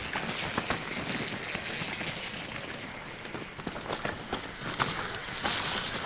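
Rain and wind on the microphone: a steady hiss full of small ticks and crackles, with a stronger gust of hiss near the end.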